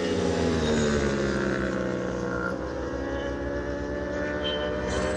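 Vehicle engine running with a steady drone, its pitch sliding slowly down over the first few seconds, then holding level.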